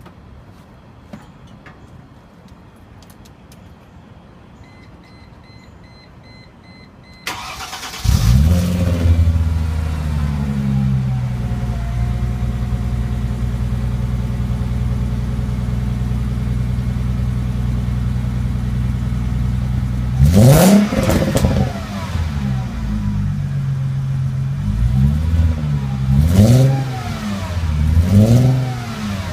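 2001 Mercedes-Benz C240's V6, with the second catalytic converter and resonator removed and a Magnaflow muffler, cranks and starts about seven seconds in, flares up, then settles to a steady idle. About two-thirds of the way through it is revved once hard, then blipped three more times near the end. A faint repeating beep is heard just before the start.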